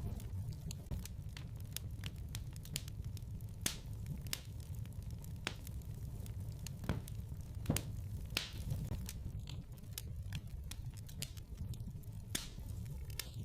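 Wood fire burning in a fireplace: a steady low rumble of flames with irregular sharp crackles and pops, a few louder pops near the middle.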